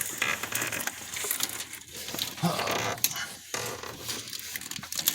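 Handling noise: an irregular run of small clicks and rustles as spark plug wires are worked into place by hand.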